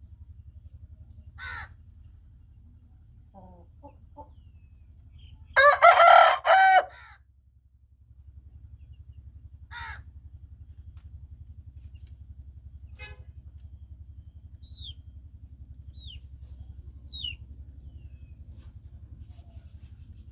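A rooster crows once, loud, about six seconds in, among scattered shorter calls and clucks from other chickens. A few short high chirps come near the end, over a steady low hum.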